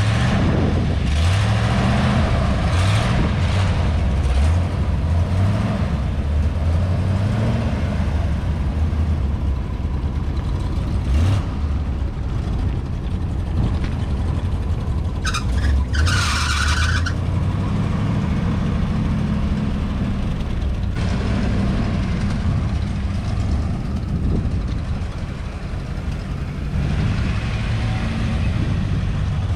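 A motor vehicle engine running, its pitch rising and falling repeatedly as it is revved. About halfway through there is a short burst of hiss.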